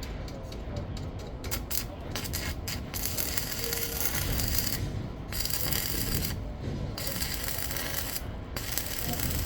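Irregular scraping and rasping strokes over a steady low rumble.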